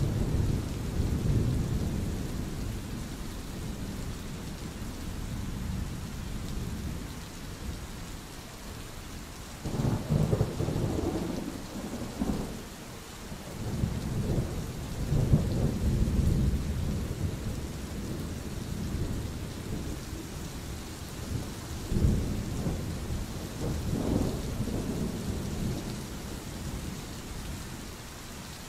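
Rain falling steadily with rolling thunder: low rumbles swell and fade several times, with sharper claps about ten seconds in and again a little after twenty seconds.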